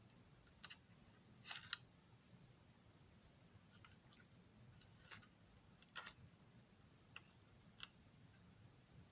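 Faint, scattered small clicks and taps over quiet room tone, about seven in all, the loudest a close pair about one and a half seconds in.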